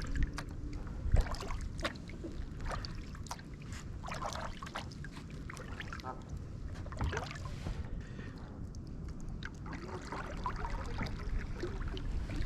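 Kayak paddling: irregular splashes and drips as the paddle blades dip in and lift out of the water, over a steady low rumble.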